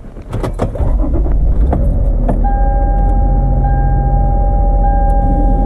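Keys jangling and a few clicks, then the van's engine turns over and settles into a steady running rumble. About two seconds in, a vehicle warning chime starts, one tone repeating about every second.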